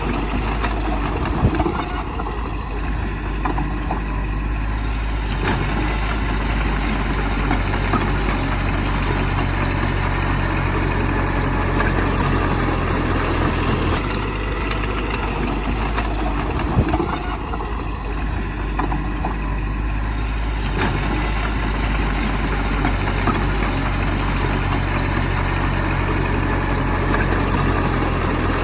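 Heavy diesel engine of earthmoving machinery running steadily, with a couple of brief knocks.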